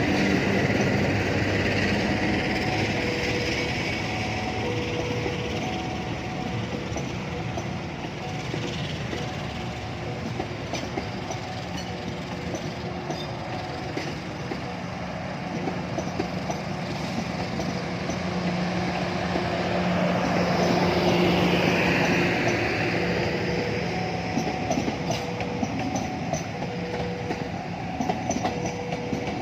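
A train running past on the rails, wheels clacking over the rail joints, the noise swelling again a little past the middle. A faint repeating two-note electronic tone sounds near the start and again near the end.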